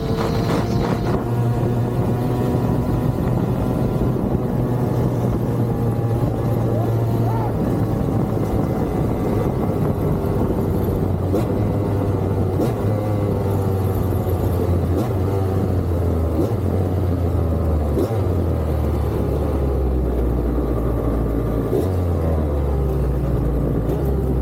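Motorcycle engine running while riding, its pitch stepping and gliding up and down several times as the revs change.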